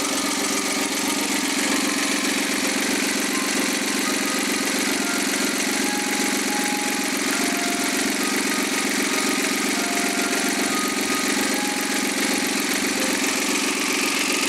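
Freshly overhauled Suzuki K6A 660 cc three-cylinder turbo engine running on its test run, holding a steady speed with no rise or fall in revs.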